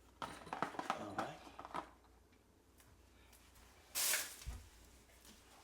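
Small clicks and rattles of toilet repair kit parts being handled, then a short hissing rustle about four seconds in, followed by a low thud.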